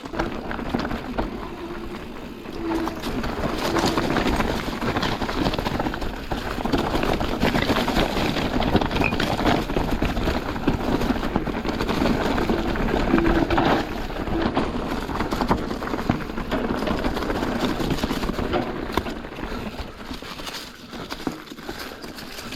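Mountain bike riding over a rocky trail: tyres rolling over stones and the bike rattling, with many small knocks throughout.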